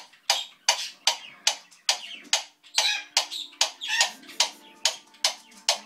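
African grey parrot making a rhythmic series of sharp clicks and knocks, about two or three a second: a mimicked tick-tock or banging, construction-type noise.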